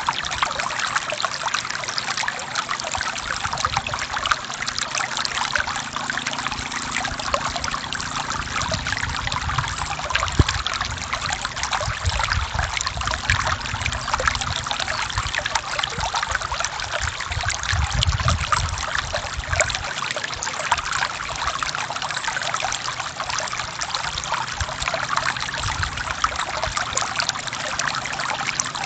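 Forest stream flowing over rocks, a steady babbling and trickling of water, with a low rumble coming and going in its lower range.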